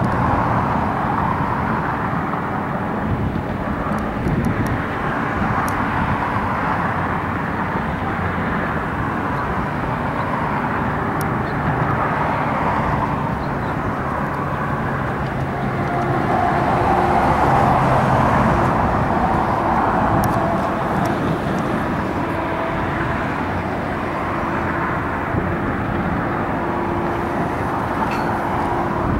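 Union Pacific diesel locomotives of an approaching loaded coal train running, a steady low drone, mixed with a continuous roar of road traffic that swells and fades as vehicles pass, loudest about two-thirds of the way through.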